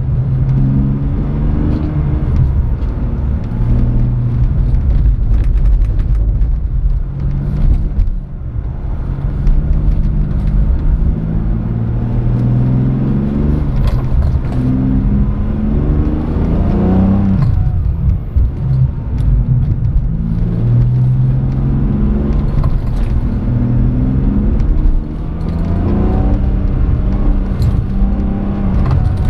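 Car engine heard from inside the cabin, revving up and dropping back again several times while driven on track, over a steady low road rumble.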